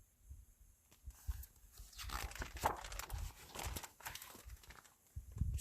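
Faint paper rustling and handling noises as a picture book's page is turned.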